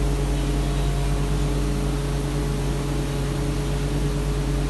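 Steady machine hum: a constant low drone with an even hiss, unchanging throughout.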